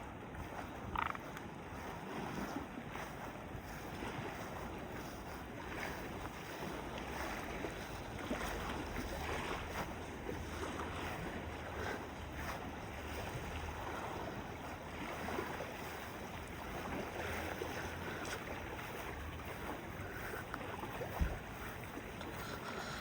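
Steady outdoor background noise with scattered light clicks and a few short, faint chirps.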